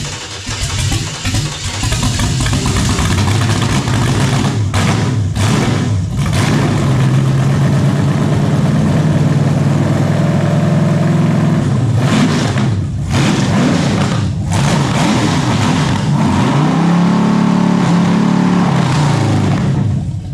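Newly built small-block Chevy 350 V8, carbureted and fitted with headers, running on its first start on an engine run stand. It runs unevenly for the first couple of seconds, then holds a loud, steady run while the throttle is blipped, the revs rising and falling twice, before the sound stops abruptly at the very end.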